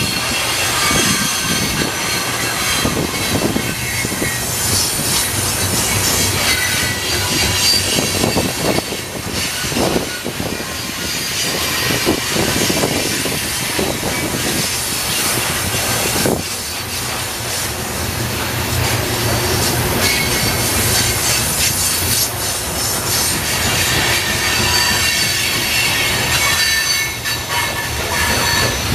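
Coal hopper cars of a freight train rolling past close by: a steady run of steel wheels on rail, with high-pitched wheel squeal that comes and goes, strongest near the start and in the last third, and occasional clacks at rail joints.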